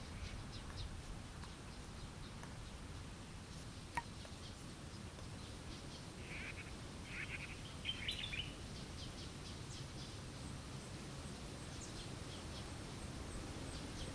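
Faint woodland ambience with a steady low rumble, and a few short bird chirps in quick groups about six to eight seconds in. A single sharp tick sounds about four seconds in.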